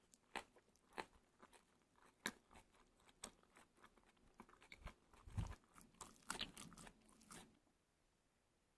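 A person chewing chewy spicy braised pork trotter, with irregular smacking, chomping mouth sounds that stop about seven and a half seconds in.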